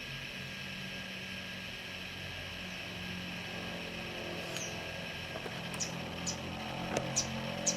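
Newly hatched nestling birds giving thin, high peeps: about five short falling squeaks in the second half, with a few soft rustles, over a steady low hum.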